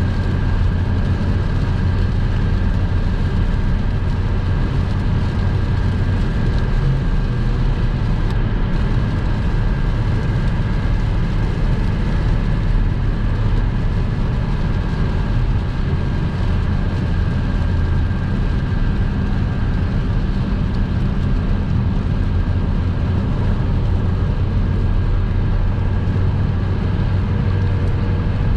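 A car driving steadily at motorway speed: a constant low rumble of road, tyre and engine noise, with a faint steady high tone over it.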